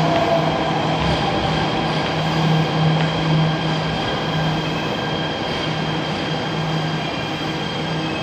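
A train running on the rails: steady rail and running noise with a low, steady hum and a thin, high-pitched whine over it.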